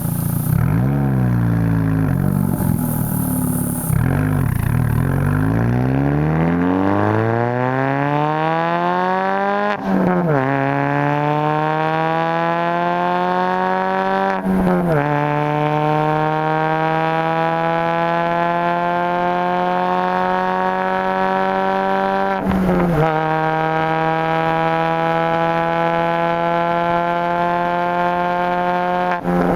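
Straight-piped exhaust of a 2004 Mini Cooper R50's 1.6-litre Tritec four-cylinder under hard acceleration. Its pitch climbs in each gear and drops sharply at each of four upshifts, and each gear rises more slowly than the one before.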